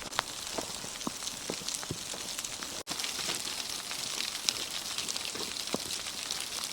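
Sleet (frozen rain) falling on dry leaves: a steady hiss of countless fine ticks and taps.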